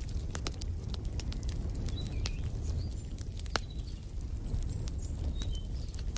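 Wood fire crackling: sharp, irregular pops over a low steady rumble. Short, high bird chirps come in a few times from about two seconds in.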